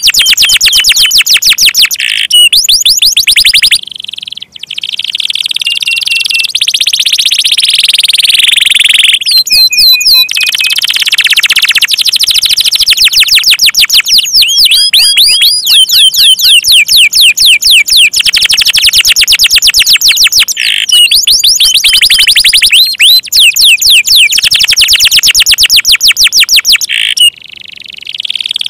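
Domestic canary singing loudly in fast rolling trills of repeated chirps, with a few held whistled notes and brief pauses about four seconds in and near the end.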